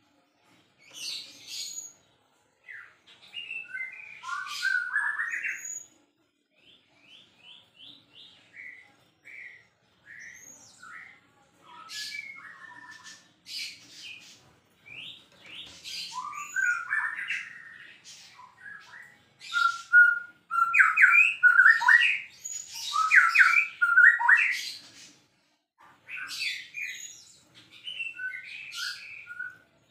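White-rumped shama (murai batu) singing actively, a varied run of rich whistles, quick chattering notes and sweeping calls with short pauses between phrases, growing loudest past the middle.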